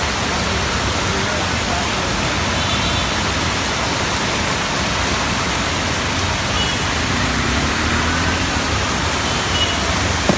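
Heavy rain pouring down in a steady, dense hiss, with one brief tap just before the end.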